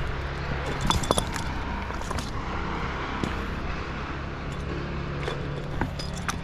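An engine running steadily at a low idle, with scattered light metallic clicks and clinks over it.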